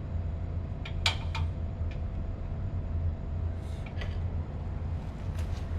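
Steady low hum of running plant-room machinery, with a few sharp metallic clicks and taps from tools at work on the motor mounting during alignment. The loudest tap comes about a second in, and a cluster of taps comes near the end.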